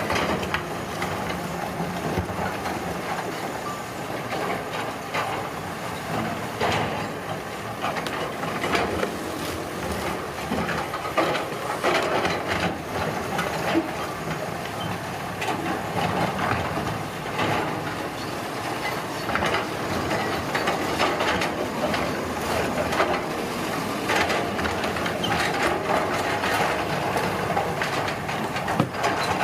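Road construction machinery working: an engine running steadily under frequent clattering and scraping knocks.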